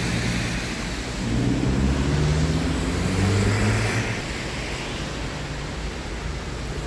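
Street traffic on a wet road in heavy rain: a steady hiss, with a vehicle engine humming louder from about a second in until about four seconds in.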